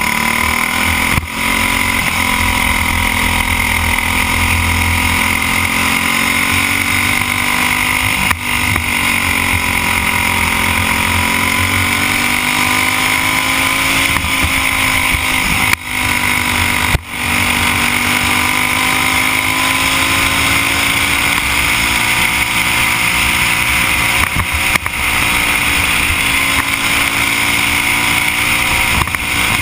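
Briggs & Stratton Animal single-cylinder four-stroke kart engine running at racing speed, heard from the driver's helmet camera. Its pitch rises and falls gently through the corners, with a few brief dips in level.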